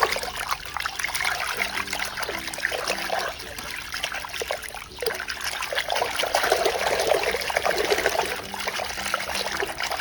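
Water trickling and splashing as a muddy toy donkey is washed by hand, getting louder about six seconds in.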